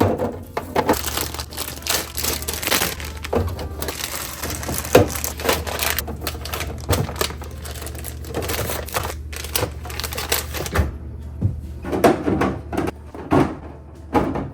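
Close-up handling noise from fridge restocking: a dense crackle of packaging and containers with many small clicks for about eleven seconds, then a few separate knocks as items are set down.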